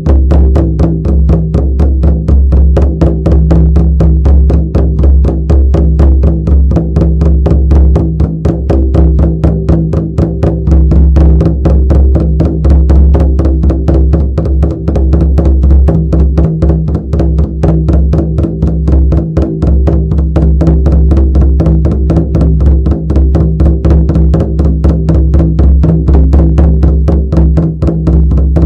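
Shamanic drum beaten in a fast, steady, unbroken rhythm, each stroke booming deep and low.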